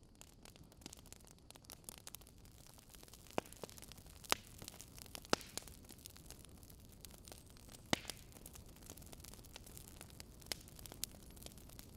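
Fire crackling: irregular sharp snaps and pops, a few of them louder, about three, four, five and eight seconds in, over a low steady hiss and rumble.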